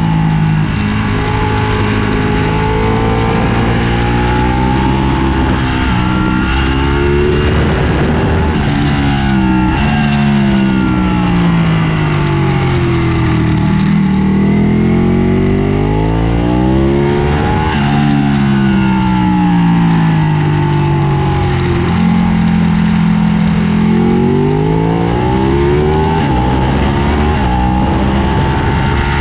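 Ducati 1299 Panigale's 1285 cc Superquadro V-twin running hard on a racetrack, its revs climbing and falling again and again as the bike accelerates and slows through the lap.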